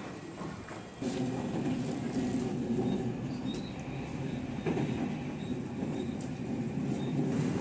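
Electric train rolling past a station platform, its running noise rising sharply about a second in and staying loud, with a few faint, brief high squeals from the wheels.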